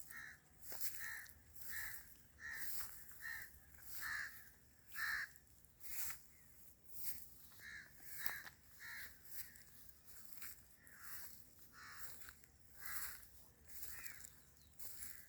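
Birds calling over and over, about twenty short calls, roughly one every half second to a second, with no pause.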